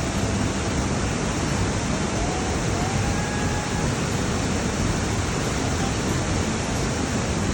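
Steady rushing of a small waterfall, an even hiss of falling water.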